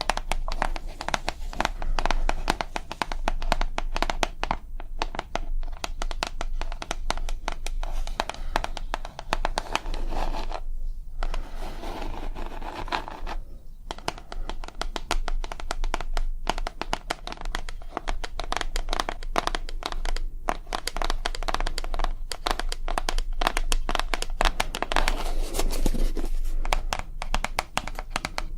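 ASMR tapping and scratching close to the microphone: a fast, dense run of taps that continues almost without a break, pausing twice briefly near the middle.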